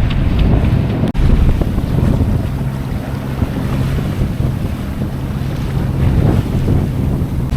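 Wind buffeting the microphone aboard a sailboat under way along the coast, with sea noise around the hull and a steady low drone underneath. The sound cuts out for an instant about a second in.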